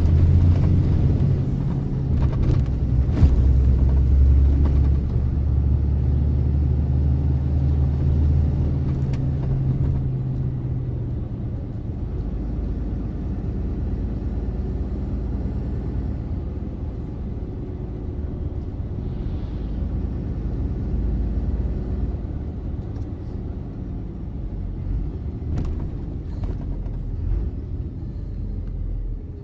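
Truck engine running while driving, with road rumble. The engine drone is strong for the first ten seconds or so, then eases to a lower, steadier rumble.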